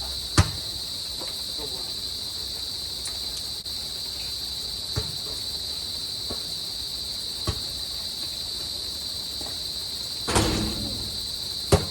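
Steady high-pitched chirring of crickets. A few sharp knocks are spaced several seconds apart, and a louder burst comes near the end.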